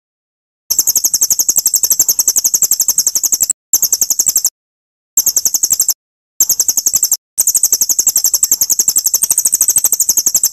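High-pitched, very rapid chipping trill of a small songbird from a birdsong tutor recording (masteran) for white-rumped shamas. It plays in several bouts a few seconds long, separated by short gaps of dead silence, as in an edited loop.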